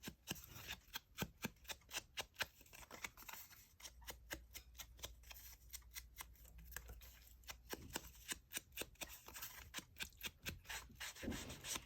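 Ink pad being dabbed along the edges of a sheet of paper or card, a faint run of short, dry taps at about two to three a second.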